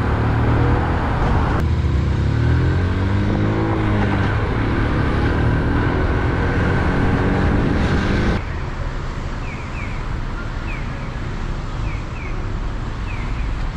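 2008 Honda Super Cub 50cc single-cylinder four-stroke engine running on the road, its pitch rising as it accelerates through the gears, with road and wind noise. A little past halfway it cuts abruptly to a quieter traffic background with short, high, repeated chirps.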